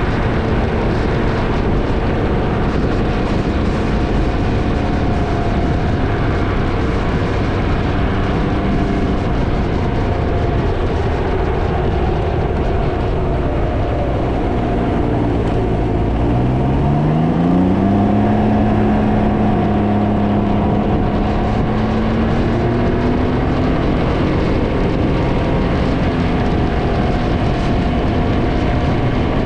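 Can-Am Ryker three-wheeler riding along, its engine running under heavy wind noise on the microphone. A little past halfway the engine note rises as it accelerates, then holds steady.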